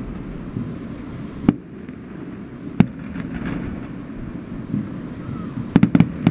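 Aerial firework shells bursting: single sharp bangs about one and a half and three seconds in, then a quick cluster of four bangs near the end, over a steady low background rumble.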